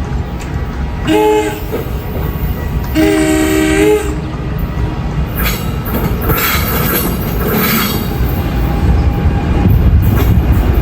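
The NJ Transit Princeton "Dinky" shuttle train arriving: its multi-tone horn gives a short blast and then a longer one of about a second, followed by the rumble of the train rolling in, with wheel or brake squeal.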